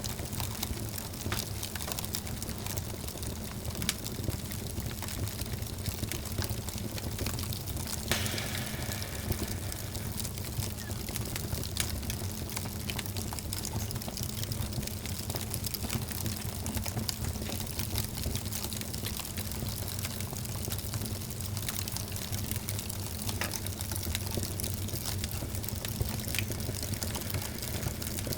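Wood fire burning in a fireplace: a steady low rumble of flames with many small crackles, and one sharper pop about 8 seconds in followed by a short hiss.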